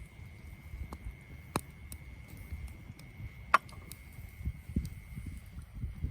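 Wood campfire crackling: sharp, irregular pops and snaps over a low, unsteady rumble, one loud pop about three and a half seconds in.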